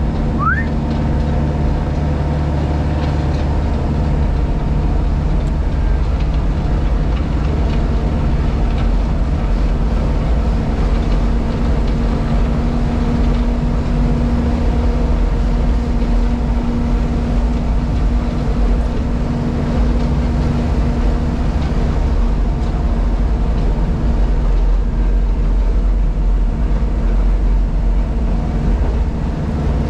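JCB Pothole Pro's diesel engine and hydraulics running steadily, heard from inside the cab, with a slight rise in engine note around the middle.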